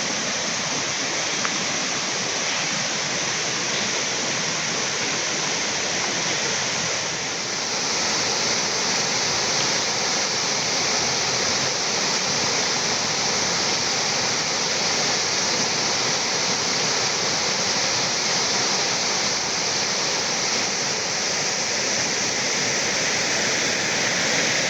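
River water rushing steadily, a little louder from about seven and a half seconds in.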